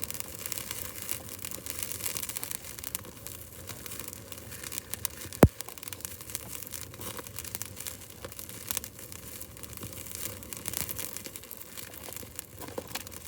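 Newly lit birch-wood fire crackling with scattered sharp pops, one much louder crack a little before halfway.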